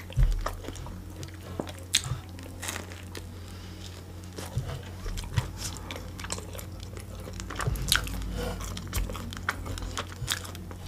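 Close-miked chewing and biting of food, with many short crunches and mouth clicks at irregular moments.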